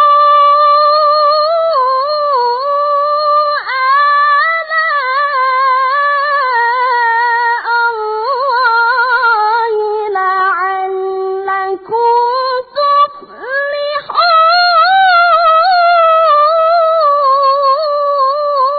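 A young qari reciting the Quran unaccompanied in melodic tilawah style: long, ornamented held phrases in a high voice, with short breaks for breath about twelve and thirteen seconds in.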